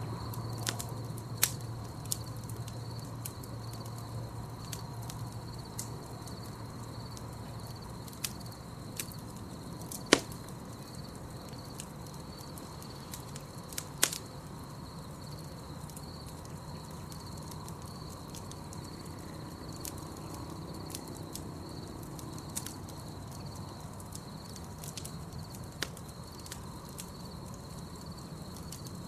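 Wood campfire crackling with scattered sharp pops, two loud ones about ten and fourteen seconds in, over a steady high insect trill.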